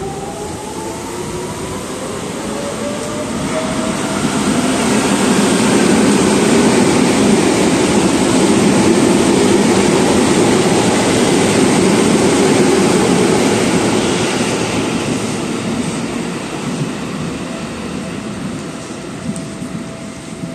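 Electric train passing through the station. Its motor whine rises in pitch at the start, then the wheel and body noise builds to a loud peak mid-way and fades away after about 14 seconds.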